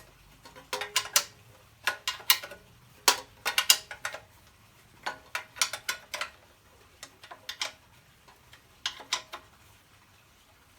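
Clusters of sharp metallic clicks and ticks, several in each cluster, every second or two, from hand tools and parts being worked on the generator.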